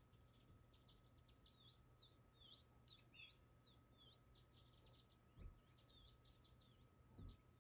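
Faint birdsong: a small bird chirping and twittering in quick high notes throughout, with a faint steady hum underneath. Two soft low thuds come about halfway through and near the end.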